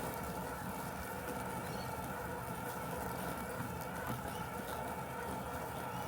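Robotic lawn mower running with a steady mechanical hum: a few held whining tones over a low rumble.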